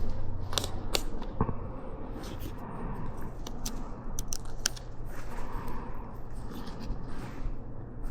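Scattered sharp clicks and light scraping of hands fitting and tightening a metal clamp on an ATV axle's rubber CV boot.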